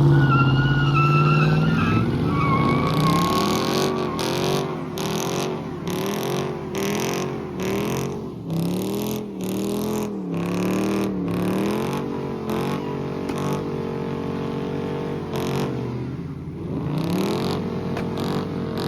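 Car engine revving hard: a held high rev at first, then repeated quick blips with the pitch rising and falling about once a second, settling back before another rev up near the end.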